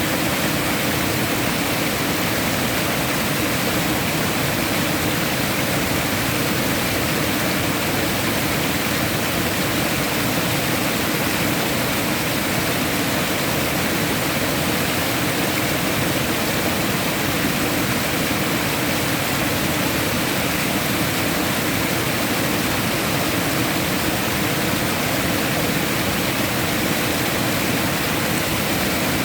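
Steady rushing of running water, an even unbroken wash of noise with no changes.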